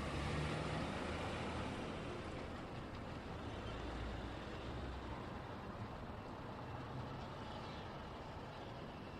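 Road traffic passing, a steady rush of tyres and engine noise with a low hum from heavier vehicles, louder near the start and easing off slightly later.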